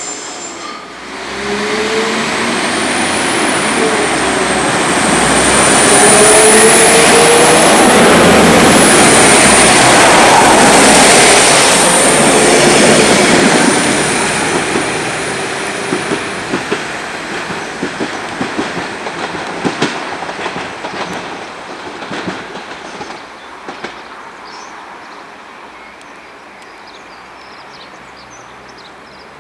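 A train passing close by: it builds over the first few seconds and stays loud for several more, with a high, thin squeal of the wheels on the rails, then fades away through a run of sharp clicks from the wheels over the rail joints.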